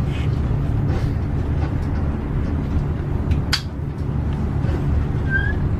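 Subway train running with a steady low rumble, heard from inside the carriage, with a few clicks and knocks and a brief squeak near the end.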